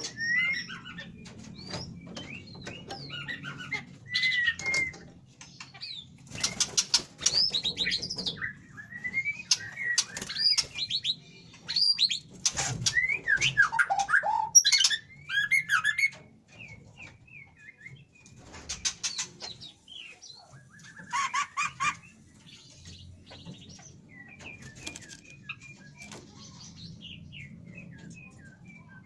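White-rumped shamas singing in short whistled phrases and chirps, mixed with repeated bursts of wing flapping. The song and flapping are busiest in the first half and thin out after about sixteen seconds.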